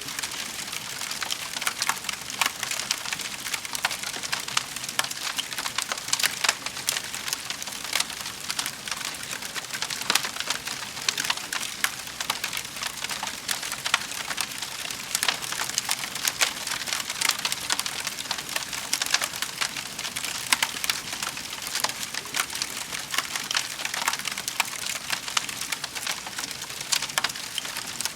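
Wood fire crackling steadily in a fireplace: a constant dense patter of small snaps and pops, with sharper louder cracks scattered throughout.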